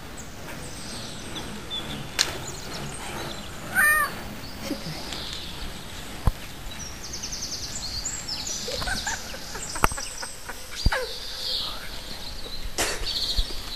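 Small birds chirping and trilling, with a louder short call about four seconds in and a few sharp clicks.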